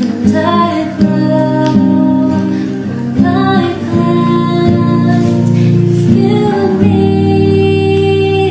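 A woman singing a slow pop song to acoustic guitar accompaniment.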